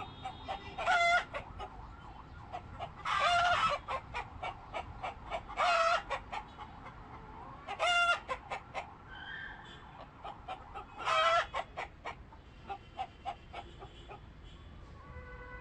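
Domestic chickens clucking, with five loud, short calls spaced every two to three seconds over a run of quick clucks.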